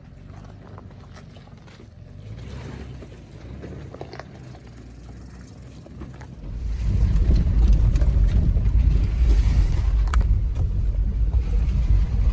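A Toyota 4Runner TRD Off-Road on a rough trail: a low, fluttering rumble that jumps much louder about six and a half seconds in.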